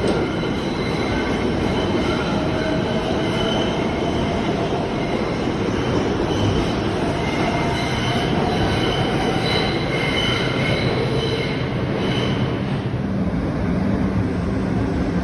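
New York City subway R142 train running through the station, a steady loud rumble of wheels on rail with faint thin squealing tones above it.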